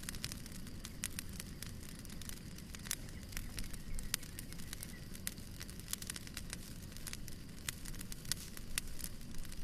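Wood fire burning in a fireplace: a steady low rumble of flame with frequent irregular sharp pops and crackles from the burning logs.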